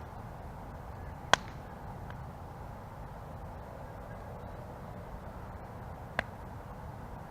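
Campfire burning with a steady low rush, broken by sharp pops of burning wood: a loud pop about a second in, a faint one soon after, and another near the end.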